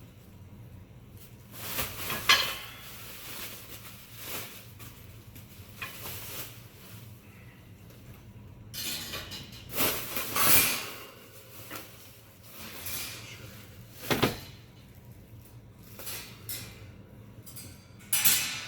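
Metal bird-cage parts clinking and knocking against each other as they are handled, with rustling packaging in between.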